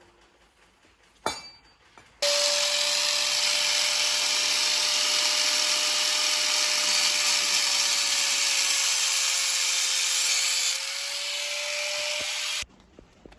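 A power tool running steadily for about ten seconds with a constant whine, starting suddenly, easing slightly in level near the end and then cutting off; a single click comes just before it starts.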